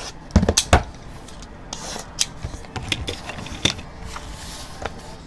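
Cardboard hobby boxes being unwrapped and handled: plastic wrap rustling and crinkling, with several sharp knocks of cardboard, the strongest about half a second in.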